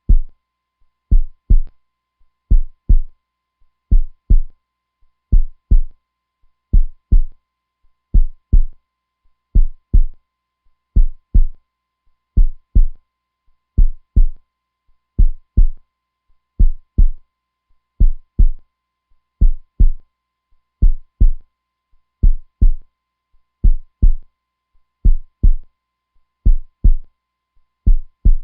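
A slow, steady heartbeat, each beat a deep double thump (lub-dub), repeating about every second and a half.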